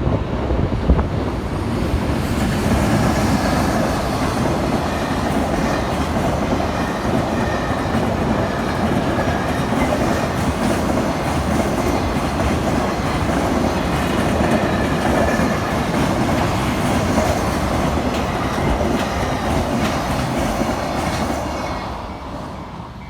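Train passing over a railway level crossing: wheels clattering over the rail joints in a dense steady rumble for about twenty seconds, fading over the last two seconds as the end of the train goes by. The level-crossing bell's steady ringing tone carries on faintly under the noise.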